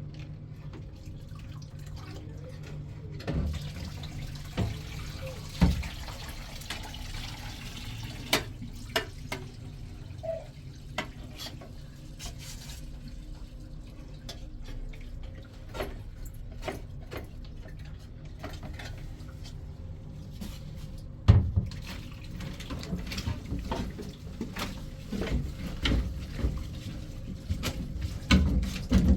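Water running from a tap, with scattered clinks and knocks and a steady low hum underneath; one loud knock about two-thirds of the way through.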